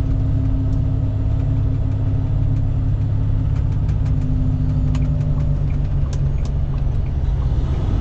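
Semi truck's diesel engine running steadily, heard from inside the cab as a low rumble. A steady hum fades out about five and a half seconds in, and a few faint clicks are scattered through it.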